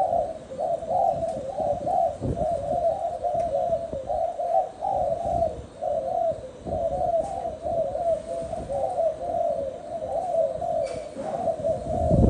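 Spotted doves cooing: short low coos follow one another with hardly a pause. A dull low thump comes near the end.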